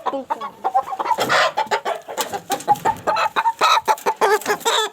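Aseel chickens clucking: many short, overlapping calls several times a second, as from a number of birds together.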